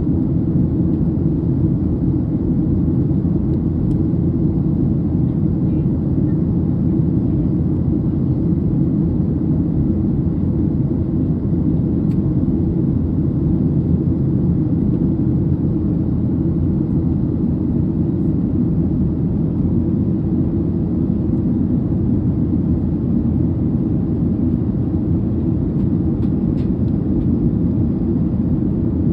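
Steady engine and airflow rumble of a Ryanair Boeing 737 in flight, heard from inside the passenger cabin, deep and unchanging.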